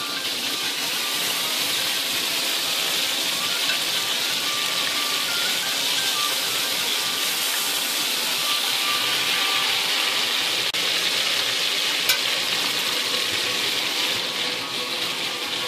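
Pieces of grouse frying in oil in a cast-iron skillet: a steady sizzle, with one sharp click about twelve seconds in.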